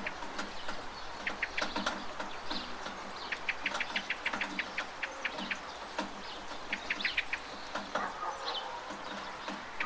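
Steady monsoon rain, with birds chirping in quick runs of short, high notes.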